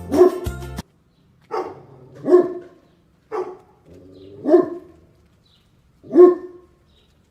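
Dog barking, about six separate barks at uneven intervals, some in quick pairs. Background music with a steady beat runs under the first bark and stops about a second in.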